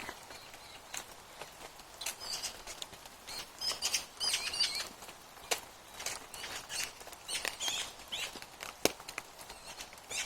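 Small birds chirping in quick clusters of high calls, with scattered sharp taps and clicks between them.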